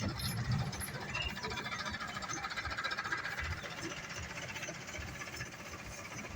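Road roller running steadily on the road base during WBM rolling: a low engine rumble with a busy hiss above it.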